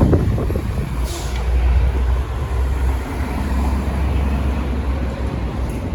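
Gilera SMX 250 motorcycle engine idling steadily, with a short knock right at the start.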